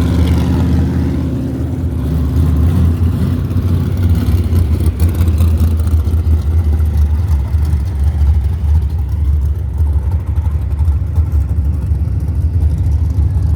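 Banger racing car engines running, a loud steady low rumble.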